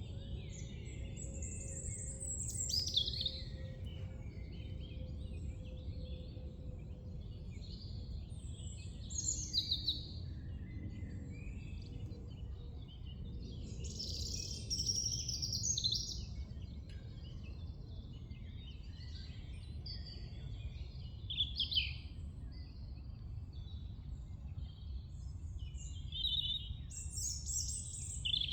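Woodland songbirds singing, with short high song phrases coming every few seconds from more than one bird, over a steady low rumble.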